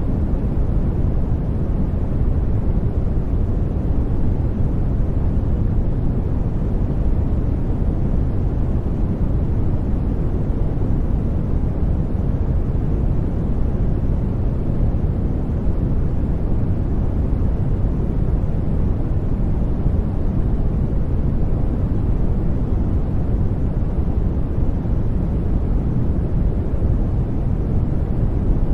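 Steady synthetic sleep noise, an even rushing hiss weighted toward the low end like brown noise, holding unchanged throughout.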